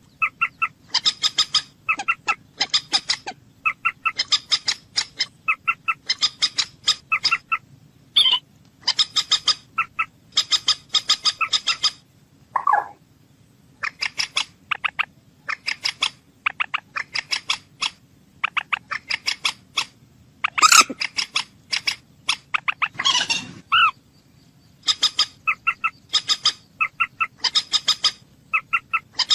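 Moorhen calling: rapid runs of short, clicking 'kek' notes in bursts of several, repeated with short gaps, with an occasional lower, longer note.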